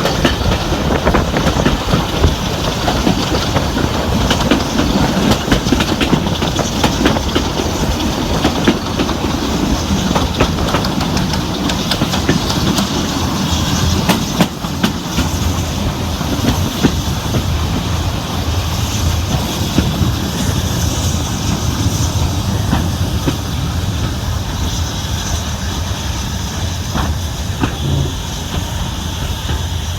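Passenger coaches of a steam-hauled train running along the rails, a steady dense clatter of wheels over the track with rapid clicks.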